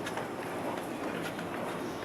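Steady hum of a car ferry's on-board machinery and ventilation, with a few faint clicks.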